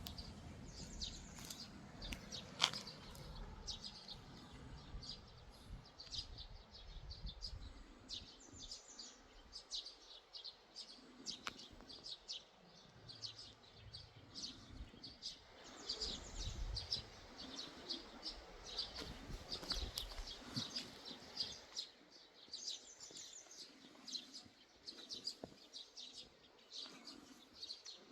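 Small birds chirping and singing: many short, high chirps in quick succession all through, with one sharp click about two and a half seconds in and a low rumble underneath for parts of the time.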